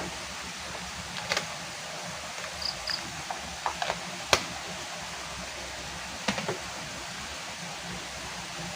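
A scattering of short sharp clicks and knocks, the loudest about four seconds in, over a steady hiss.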